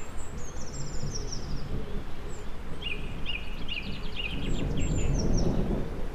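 Songbirds singing, first a fast high trill and then a run of repeated chirps, over a continuous low rumble of distant thunder that swells near the end.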